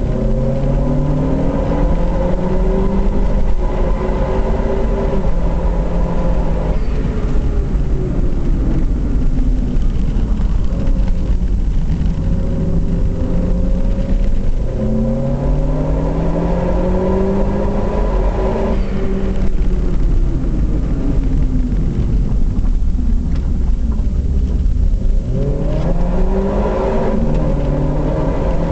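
Car engine pulling hard and easing off in turn: its pitch climbs under acceleration near the start, again in the middle and near the end, and falls away between. A heavy, constant low rumble of road and wind runs under it.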